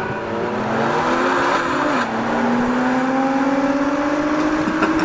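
Car engine at full throttle accelerating hard, its pitch climbing steadily, dropping suddenly at a gear change about two seconds in, then climbing again.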